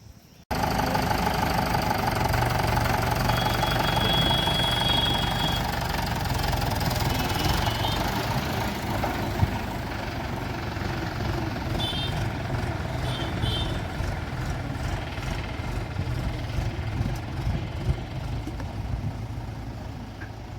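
Mahindra 275 DI XP Plus tractor's three-cylinder diesel engine running steadily with a knocking diesel clatter. It starts abruptly about half a second in and eases slightly in level toward the end.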